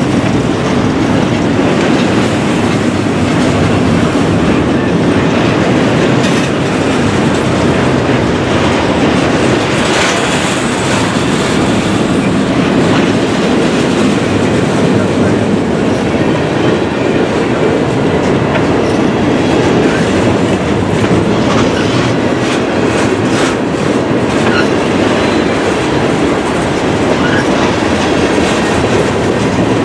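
Freight train passing: double-stack container well cars, then open gondolas, their steel wheels running loud and steady on the rails with scattered clicks.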